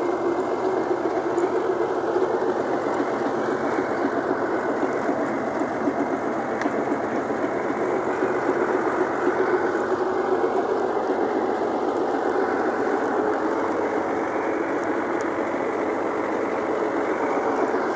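Tractor diesel engine running steadily, a dense fast chugging with no change in speed.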